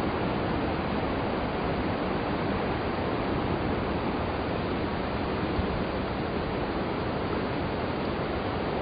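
Steady rush of a coastal waterfall pouring onto the beach, mixed with ocean surf.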